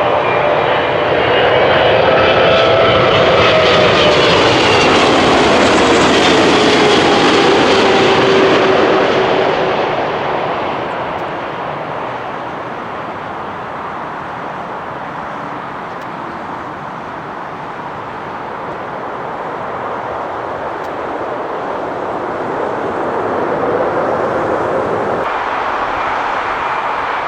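Boeing 777-300ER jet airliner's GE90 engines passing close by on approach to land: a loud rushing jet noise with whining tones that slide down in pitch as it passes, then fading to a quieter rumble. Near the end the sound cuts to another jet's engine noise.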